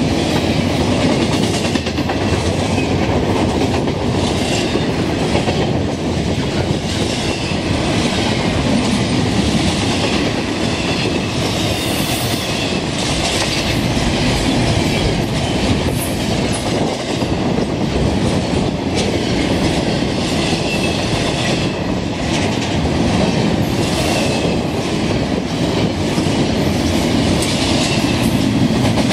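Double-stack intermodal freight train rolling past close by: a steady rumble of well cars, with the wheels clicking over rail joints.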